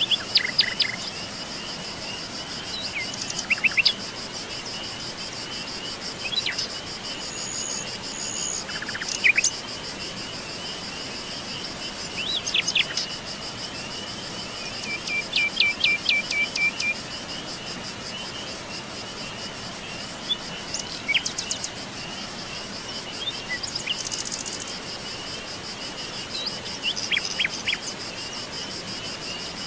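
Birds chirping in short bursts every few seconds over a steady, high, fast-pulsing insect trill, with an even hiss of running water beneath.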